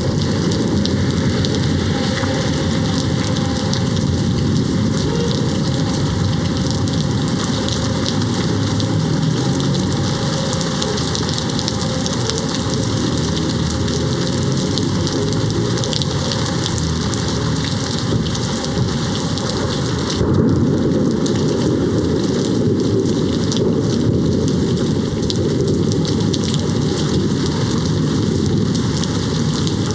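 Steady heavy rain pattering on a window, with low thunder rumbling under it. About two-thirds of the way through, the low rumble grows louder.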